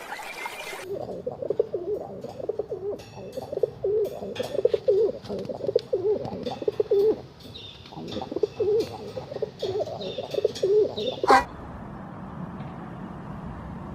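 Pigeons cooing: a long run of low, repeated calls with faint clicks among them. The cooing ends near the end with a sudden sharp sound, and a steady background noise follows.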